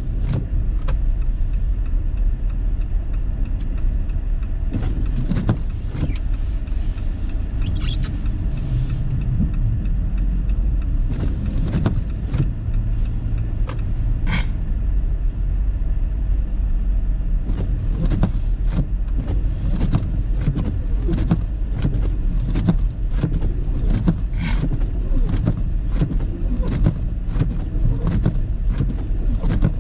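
Car driving on a snowy road, heard from inside: a steady low road and engine rumble with many short sharp clicks and knocks, which come more often in the second half.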